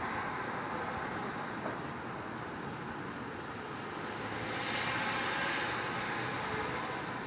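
Steady hum of road traffic, swelling as a vehicle passes about five seconds in.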